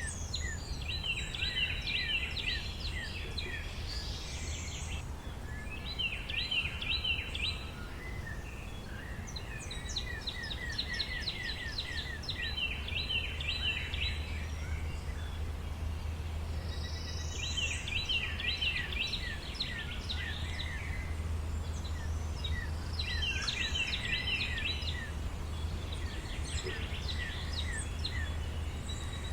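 Songbirds singing in a forest: short phrases of rapid chirps and trills repeat every few seconds. A low steady rumble runs underneath.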